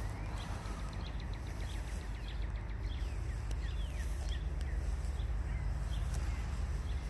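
Small birds chirping in quick, short notes, busiest in the first half, over a steady low rumble.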